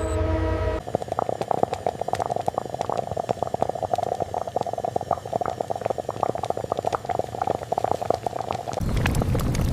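Liquid boiling hard, with a dense, rapid crackle of small bubbling pops. A steady machine hum comes just before it starts, and a louder rushing noise cuts in near the end.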